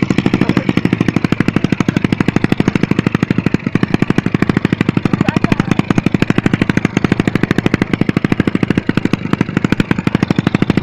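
Honda GL motorcycle's single-cylinder four-stroke engine idling steadily with a loud, deep 'gludug' exhaust note: a fast, even run of exhaust pulses, about a dozen a second.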